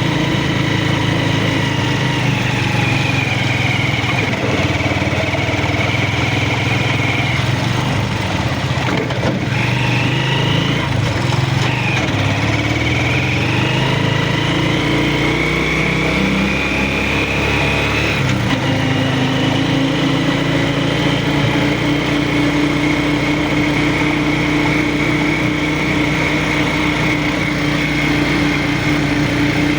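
A vehicle engine running steadily, its pitch rising and falling several times as it speeds up and slows down.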